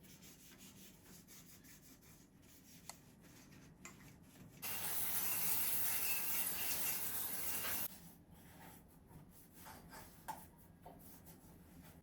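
Household cleaning: a cloth or sponge rubbing and scrubbing a surface, with a few small knocks. About halfway through, a steady hiss lasts about three seconds and cuts off sharply.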